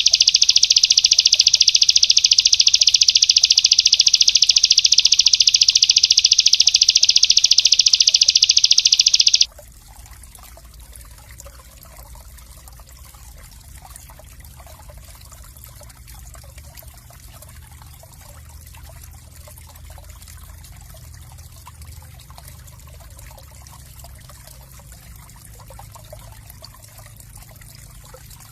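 A small songbird's very fast, tightly packed high trill, loud and unbroken, cutting off suddenly about nine seconds in. After it, a much fainter steady trickle of water.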